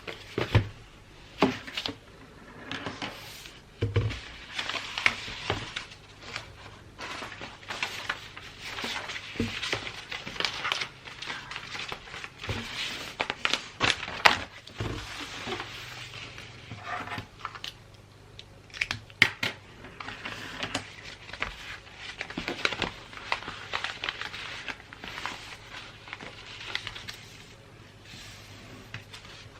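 Wrapping paper crinkling and rustling as a present is wrapped by hand, with many irregular taps and clicks from handling.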